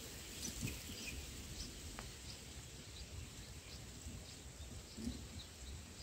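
Faint high chirps of small birds, many short calls scattered throughout, over a low steady outdoor background rumble, with a single small click about two seconds in.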